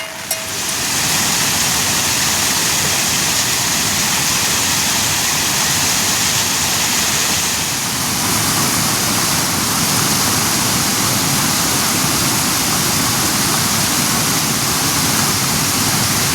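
Steady, loud rushing water that starts about half a second in and keeps up without a break.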